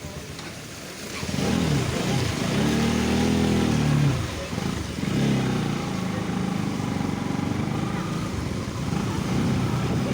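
Motorcycle engine running while riding, its pitch rising and falling as it speeds up and eases off.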